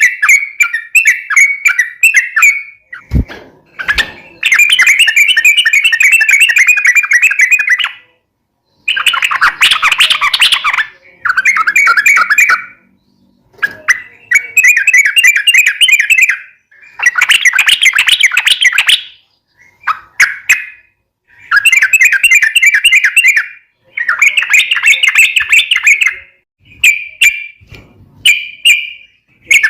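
Yellow-vented bulbul singing long, fast chattering phrases, about a dozen bursts of one to three seconds with short pauses between them. Two brief knocks sound about three seconds in.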